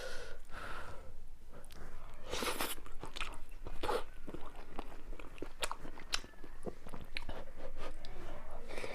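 Close-up eating sounds: a person biting and chewing crunchy food, with many short sharp crackles and a few longer crunches.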